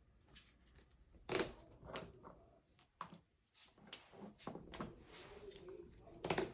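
Playing cards being handled and set down on a table: a scattering of light taps and clicks, a handful in all, one of the clearer ones about a second in and another near the end.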